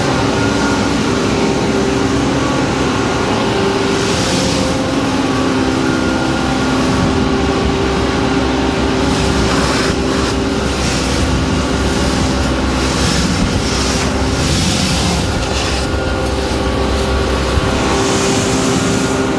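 Scania vacuum loader truck (Naaktgeboren Vacu-press 8000) running: a loud, steady machine drone with several held hum tones over a rushing noise.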